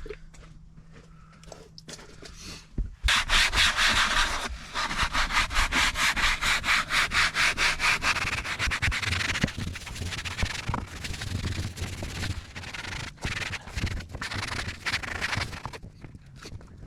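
Leather conditioner being rubbed into leather upholstery in quick back-and-forth strokes. The rubbing starts about three seconds in, is loudest for the next five seconds or so, then goes on more lightly.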